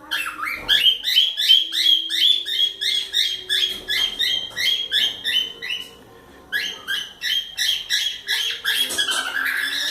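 Pet cockatiel giving a rapid string of short, repeated chirping calls, about three a second. The calls break off about six seconds in, then start again.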